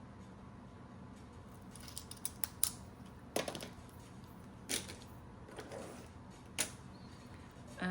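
Scattered light clicks, taps and rustles from handling paper savings-challenge sheets and cash at a desk, a few quick ones about two seconds in and single ones later.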